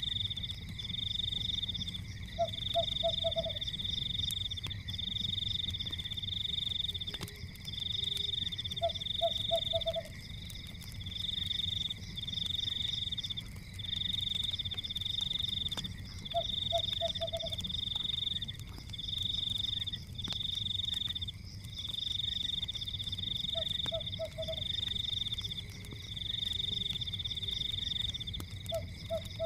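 Night-time chorus of frogs and insects: a high pulsing trill in bouts of a second or two, one after another with short gaps, and a lower call of about four quick notes every six or seven seconds, over a steady low rumble.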